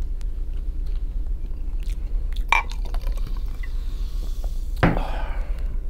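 A man chewing a mouthful of fried capelin and potatoes, with a low steady hum beneath. Two sharp knocks stand out, one about halfway through and one near the end.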